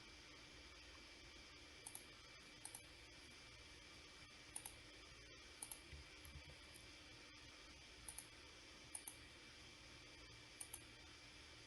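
Faint computer mouse clicks, mostly in quick pairs, every second or two, over a steady low hiss and hum.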